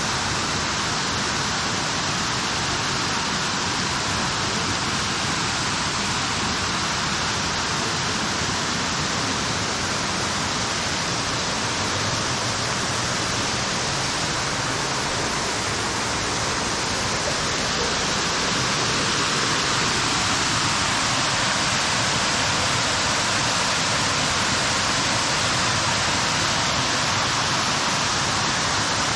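Waterfall: a steady rush of falling water, getting a little louder a bit past halfway.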